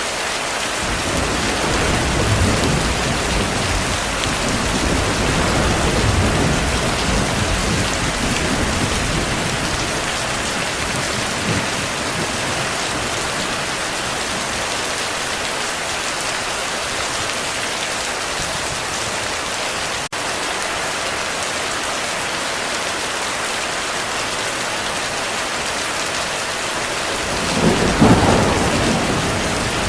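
Heavy rain falling steadily, with a long low roll of thunder through the first ten seconds or so and a sharper, louder thunderclap near the end.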